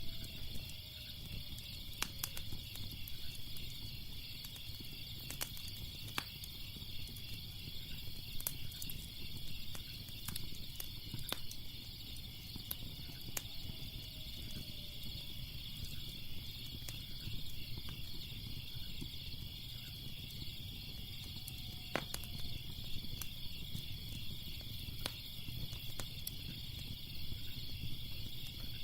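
Crickets chirping in a steady, even chorus, with a wood fire crackling underneath in scattered sharp pops.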